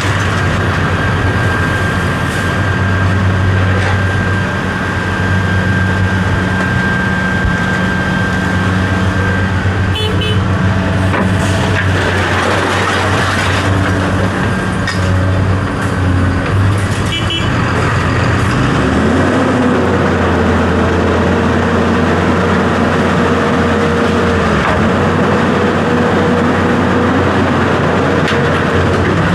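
A large vehicle's engine running steadily, its note shifting about two-thirds of the way through.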